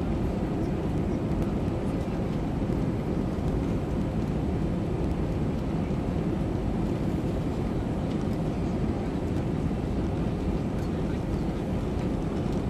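Airbus A320 in flight, its engine and airflow noise heard as a steady low rumble from inside the cabin.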